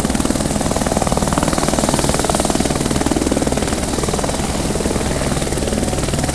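Helicopter sound effect: rotor blades chopping in a fast, steady beat with engine noise.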